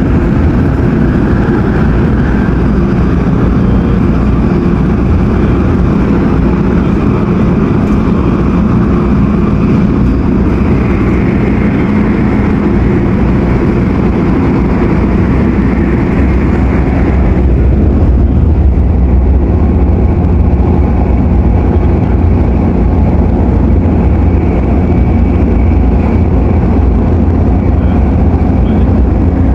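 MTR Airport Express CAF train running at speed, heard from inside the carriage: a loud, steady rumble of wheels and traction equipment with a hiss above it. About halfway through the hiss fades and the low rumble gets louder.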